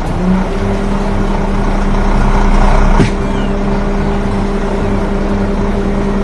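Engine of a heavy construction machine running at a steady pitch, starting abruptly, with a sharp click about three seconds in.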